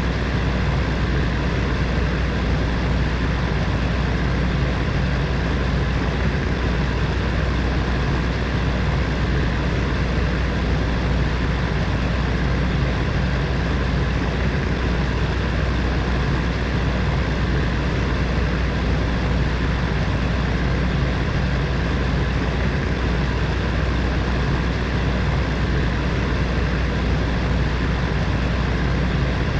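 Electric heater fan running steadily: an even whoosh of moving air over a low motor hum that does not change.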